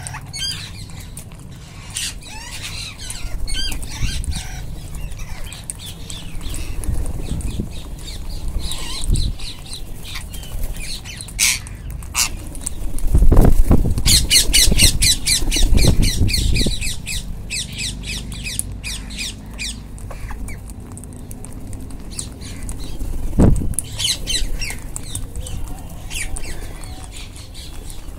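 Wild rose-ringed parakeets (Indian ringnecks) squawking with short, shrill calls, repeated throughout and coming in a fast run about halfway. Low rumbling thumps come in the middle and again near the end.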